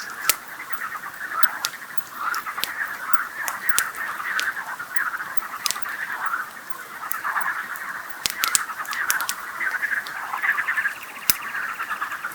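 A chorus of frogs croaking on and on, with sharp pops and crackles from a wood campfire scattered through it. A fast rattling trill joins in near the end.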